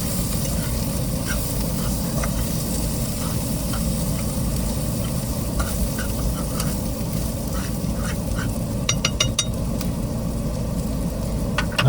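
Food sizzling as it browns in a frying pan on a portable gas camp stove, with scattered light clicks of stirring in the pan. A quick run of sharp ticks comes about nine seconds in.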